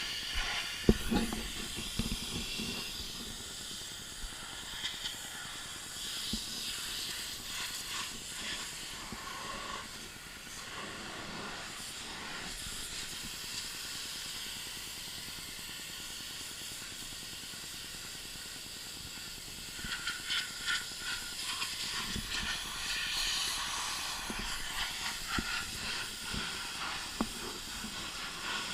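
Pressure washer spray hissing steadily against a car's body, growing louder and more uneven about twenty seconds in.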